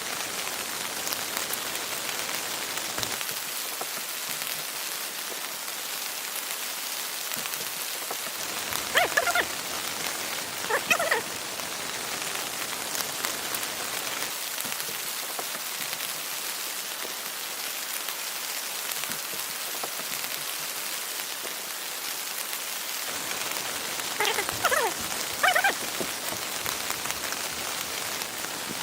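Heavy rain falling steadily, a dense even hiss. A few short high-pitched calls rise above it, twice about a third of the way in and twice near the end.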